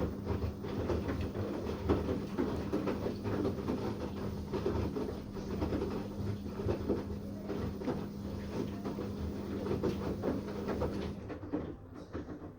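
Washing machine running a wash cycle: the drum churns the load with irregular low rumbling and small knocks over a steady motor hum. The hum cuts off about eleven seconds in and the churning dies down.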